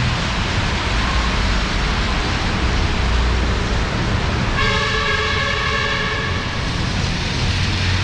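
Heavy monsoon rain pouring down steadily over a low rumble of traffic, with a horn sounding once for about two seconds from the middle.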